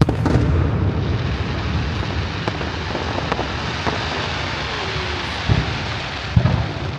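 Fireworks display: a dense, continuous rumble and crackle of shells bursting overhead, with sharper bangs now and then, two of the loudest near the end.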